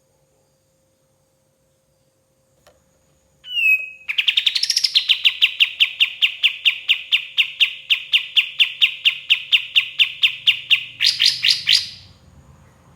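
A kapas tembak songbird singing. It gives a single slurred note, then a long rapid string of identical sharp chirps, about five a second. The string ends in a few louder, higher notes and stops abruptly.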